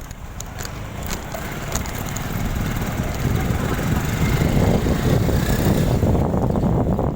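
Motorbike under way: a steady low engine and road rumble that gets louder about three seconds in.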